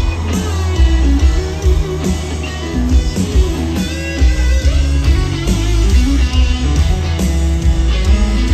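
Amplified live country band playing an instrumental break: a guitar line over heavy bass and drums, with no singing.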